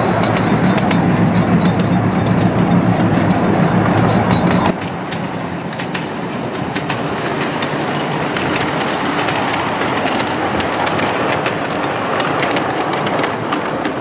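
A full-size railway goods wagon rolling past with a steady low rumble. It cuts off suddenly about five seconds in, giving way to a ride-on miniature train running on small-gauge track, its wheels clicking over the rail joints.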